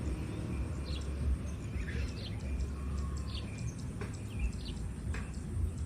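Birds chirping, short calls repeating every half second or so, over a steady low rumble.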